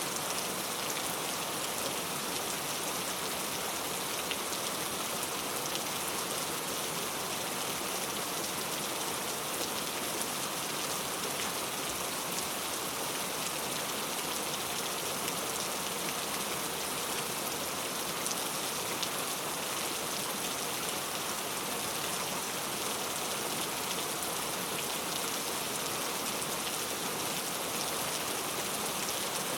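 Steady rain falling, a dense even hiss of many drops with fine scattered taps.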